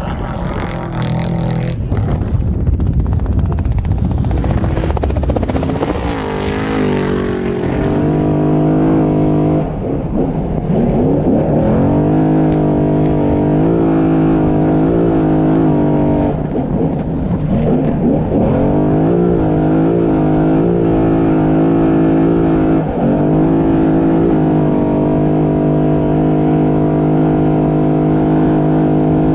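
Off-road race truck engine running hard at high revs, holding a steady pitch that dips briefly a few times. A loud rushing noise fills the first several seconds.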